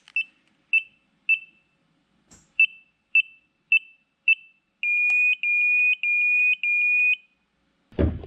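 An electronic beeper sounding short, high beeps about twice a second, then four longer beeps in a row. A loud thump comes just at the end.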